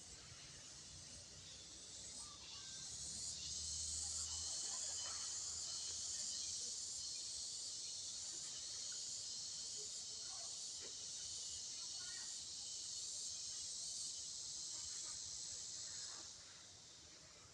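A steady, high buzzing drone that swells about three seconds in and stops abruptly about sixteen seconds in, with faint scattered chirps underneath.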